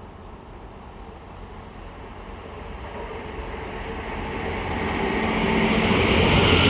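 A diesel train approaching, growing steadily louder, with its engine note coming up strongly over the last couple of seconds.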